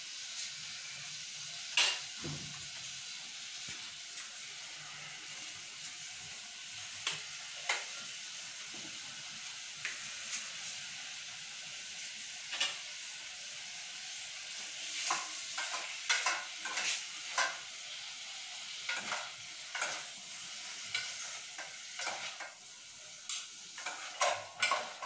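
Chicken and red onion frying in hot vegetable oil in a pan: a steady sizzle, with sharp clicks and scrapes of a utensil against the pan as it is stirred. About 22 seconds in, the sizzle falls away, leaving a few clicks of a utensil.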